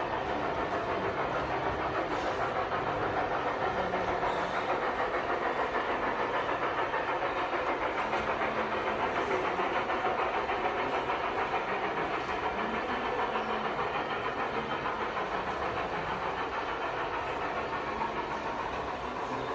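Model train running along its track, with the steady rumble of wheels on rail and a fast, even pulse throughout.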